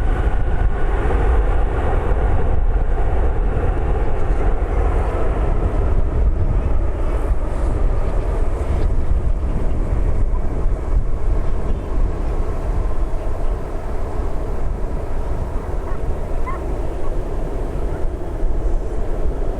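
Boeing 747-400 freighter's four jet engines giving a loud, steady rumble that eases slightly past the middle.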